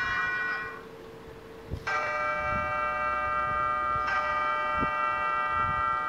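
Bell chimes in a background track: a ringing chime fades away in the first second, then bells are struck again about two seconds in and about four seconds in, each ringing on.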